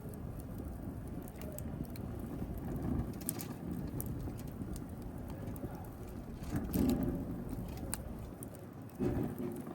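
Wood fire burning in a fireplace: a steady low rumble of flame with scattered sharp crackles and pops, and two louder surges, one just past the middle and one near the end.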